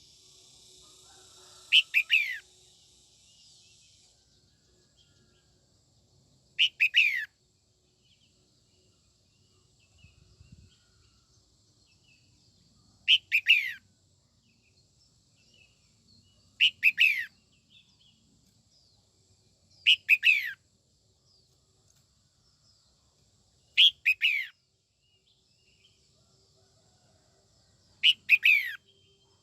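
Red-whiskered bulbul singing: short, loud phrases of quickly falling whistled notes, repeated seven times a few seconds apart. This is a female's song, used to provoke male bulbuls.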